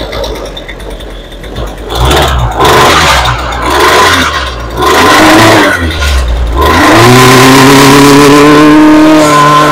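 Husqvarna 128LD string trimmer's small two-stroke engine starting after a fuel line repair. It fires in four short surges, then catches about seven seconds in and runs steadily at high revs, showing the new fuel lines have cured the no-start.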